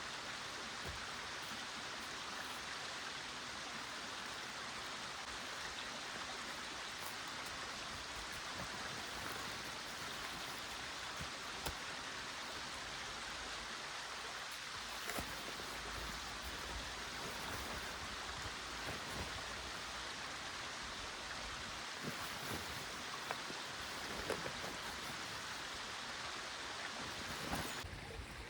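Steady hiss of water, with a few faint clicks and knocks scattered through it.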